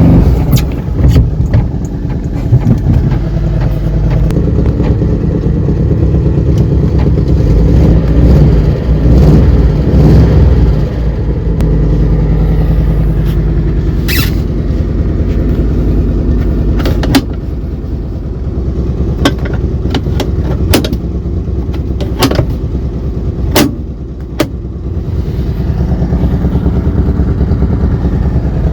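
Citroën GS Club's air-cooled flat-four engine running in freezing cold, revs rising and falling between about eight and eleven seconds in. Several brief sharp clicks are heard over the steady running in the second half.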